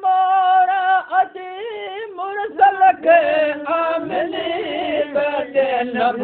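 Sindhi mawlud devotional singing: a voice drawing out and ornamenting long notes with no clear words, and more voices sounding together from about three seconds in.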